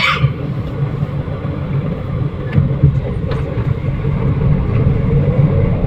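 Third-generation Toyota Vios driving on a road test, its engine and road noise heard as a steady low rumble from inside the cabin, with a few short clicks.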